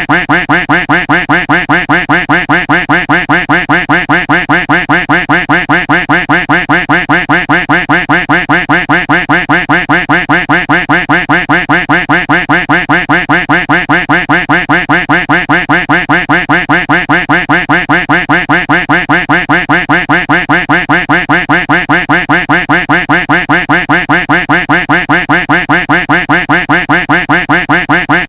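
Duck quack sound effect looped over and over, several identical quacks a second in an even, unchanging rhythm.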